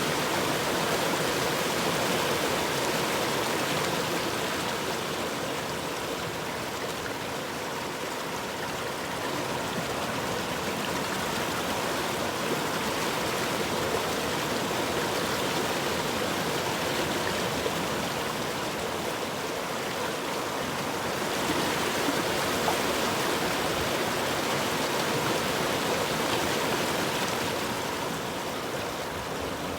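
A river or stream flowing steadily, a continuous rushing of water that swells and eases slightly in loudness.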